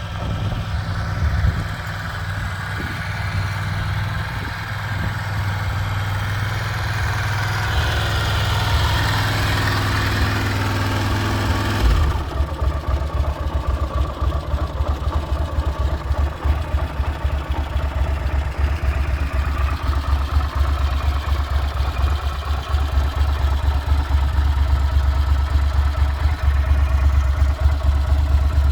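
1996 Yamaha TDM 850's parallel-twin engine idling while it warms up from a cold start. About twelve seconds in the sound changes abruptly to a deeper, pulsing exhaust note.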